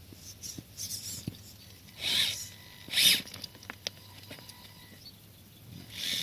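Scale RC crawler truck clambering over rough ground: scattered small clicks and crunches, with two short scraping rustles about two and three seconds in.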